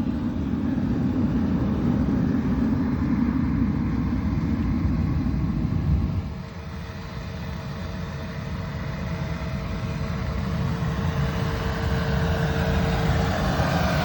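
Diesel-fired foundry furnace burning with compressed atomizing air, a steady low rumbling rush. It drops suddenly about six seconds in, then slowly builds back up, with a faint steady tone in the second half.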